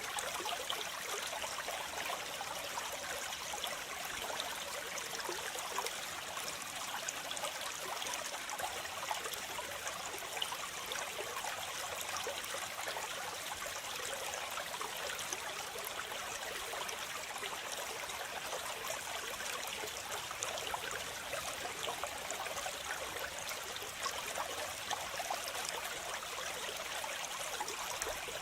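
Waterfall: a steady rush and splash of falling water, bright and hissy with little deep rumble, unchanging throughout.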